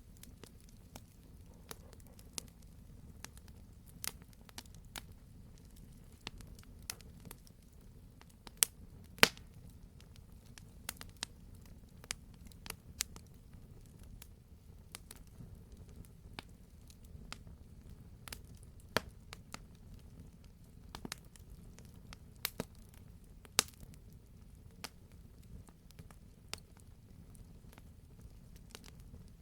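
Wood fire crackling in a fireplace: irregular sharp pops and snaps over a low steady rumble, with two louder pops about nine seconds in.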